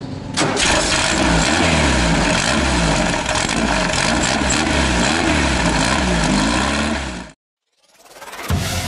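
Loud racing car engine revving up and down over and over. It cuts off suddenly about seven seconds in.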